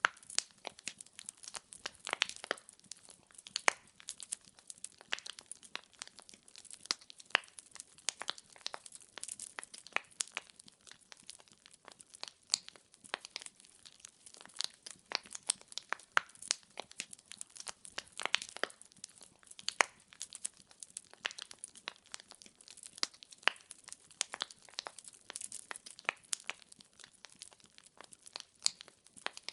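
Wood fire crackling in a fireplace: burning firewood snapping and popping in quick, irregular clicks, with a few sharper pops standing out.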